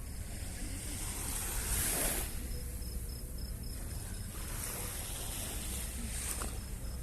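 Small sea waves washing onto the shore, swelling about two seconds in and twice more near the end, with wind rumbling on the microphone. A faint cricket chirps in even pulses from a few seconds in.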